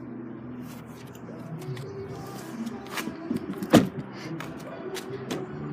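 A few sharp knocks or clicks: a softer one about three seconds in, the loudest just under a second later, and another at the very end, over a faint steady background of low tones.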